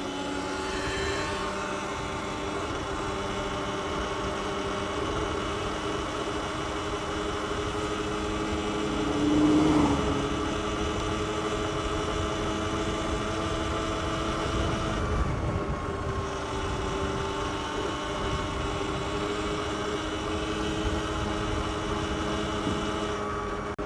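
Sur-Ron X electric dirt bike under way at a steady speed: a whine of several steady tones from the electric drive over wind and road noise, with a brief louder swell about nine and a half seconds in.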